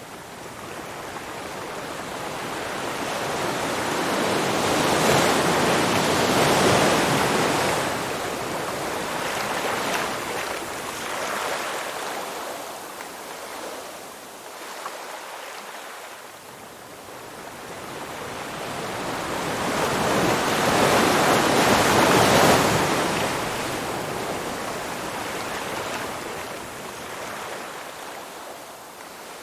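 Ocean surf washing onto a shore: two slow swells, each building over several seconds and then ebbing away, the first peaking about six seconds in and the second about twenty-two seconds in.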